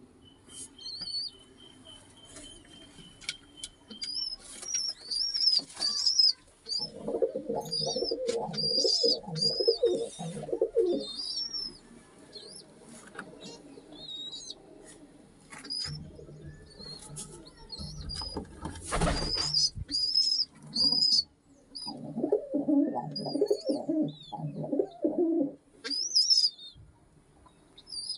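Domestic pigeons cooing in two bouts of low, pulsing coos, with high chirps from birds scattered throughout. Around the middle there is a louder burst of flapping wings.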